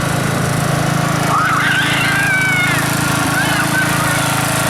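Cub Cadet riding mower's engine running steadily. A high, wavering call rises over it about a second in, and a shorter one follows near the end.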